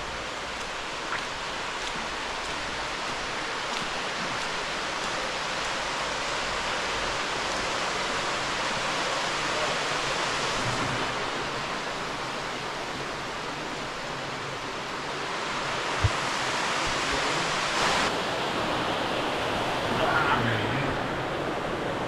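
Steady rushing of water flowing through a small cave stream, with a single sharp knock about two-thirds of the way through.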